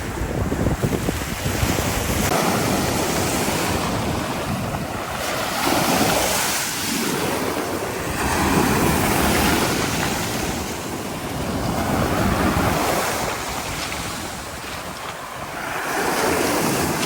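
Rough sea: waves breaking and washing in, swelling in surges every few seconds, with wind buffeting the microphone in the first couple of seconds.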